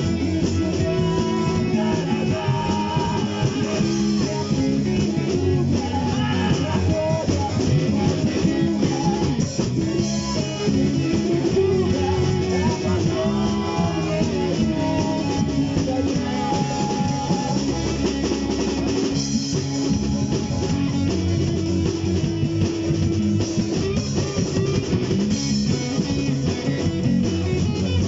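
A rock band playing an instrumental passage with guitars and a drum kit, steady and continuous between verses of the song.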